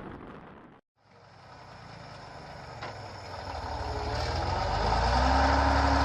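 Heavy truck engine running, after a brief gap of silence about a second in, growing steadily louder as the truck draws near, with a steady low drone and whine.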